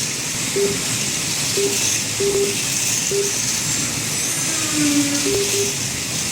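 HO-scale AFX slot-car semi trucks running laps together on a routed plastic track: a steady whirring hiss of their small electric motors, gears and tires. Over it, short electronic beeps sound at irregular intervals, the lap-timing system counting laps.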